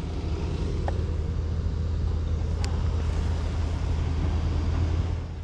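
A steady low rumble that eases off just before the end, with a couple of faint clicks.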